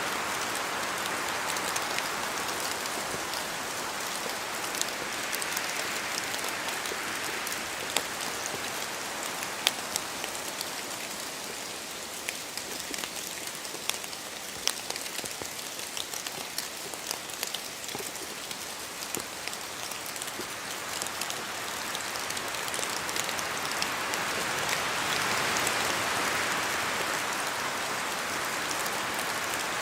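Steady rain in a spruce forest, a constant hiss dotted with many sharp taps of heavier drops falling from the trees. Wind swells through the spruces as a broad rushing sound that fades a few seconds in and builds again for a few seconds near the end.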